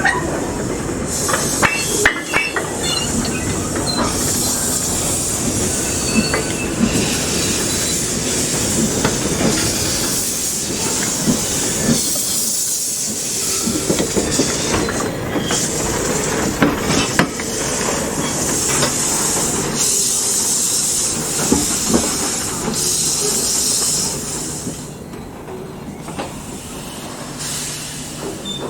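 Steam-hauled train running on the track: wheels clattering over the rails with sharp clicks and intermittent high squealing or hissing. It quietens about 24 seconds in.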